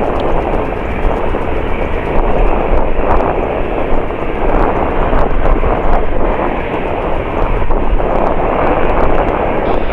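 Jet airliner's engines running at high power nearby: a loud, steady rushing roar that swells and eases slightly but never drops away.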